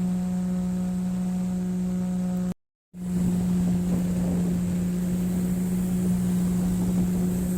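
Acoustic bass bowed with a cello bow, holding one steady low note. The note cuts off abruptly for a moment about two and a half seconds in, then sounds again.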